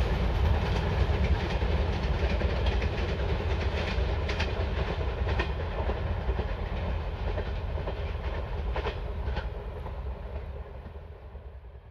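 Wheels of a receding passenger train rumbling on the rails with a clickety-clack and a few sharper clicks. The sound fades slowly as the train draws away and dies out near the end.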